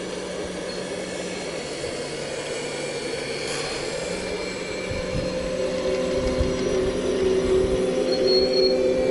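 Full-size excavator working, its engine running steadily, with a squealing metallic whine that comes in and grows louder from about halfway in.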